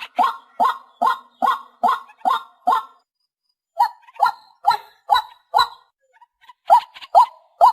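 White-breasted waterhen calling: a run of short, repeated notes at about two a second, pausing briefly about three seconds in and again near six seconds before starting up again.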